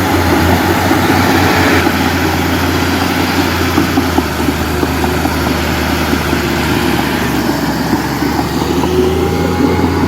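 Heavy diesel machinery running steadily with a constant low engine hum, its pitch edging up slightly near the end.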